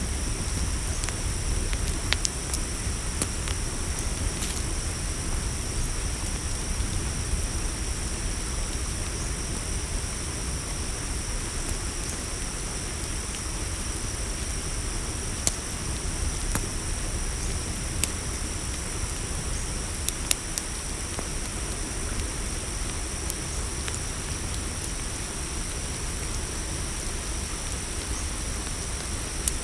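Campfire crackling, with scattered sharp pops every few seconds, over the steady high chirring of crickets.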